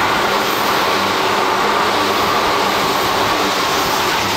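Tobu 8000 series electric train (set 8111F) passing through a station at speed without stopping: a loud, steady rush of wheels on rail and running gear as the cars go by.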